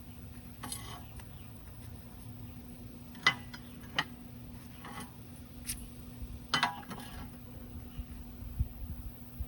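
Several sharp metallic clinks and taps, irregularly spaced with the loudest about three seconds in, over a steady low electrical hum: metal pieces and tools being handled on a welding bench.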